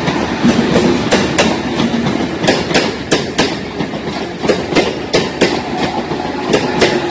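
Electric suburban train running with a steady rumble, its wheels clacking over rail joints in pairs of clicks about a second apart.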